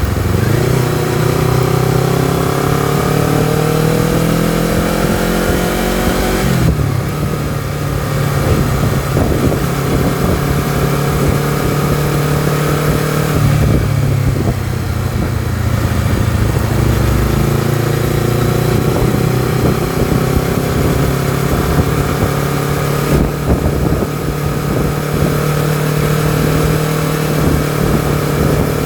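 Honda CBR250RR motorcycle engine and exhaust under way. It rises in pitch through a gear for about six seconds, then drops suddenly at a shift, runs on at uneven throttle, and pulls up through a gear again past the middle, with wind noise underneath.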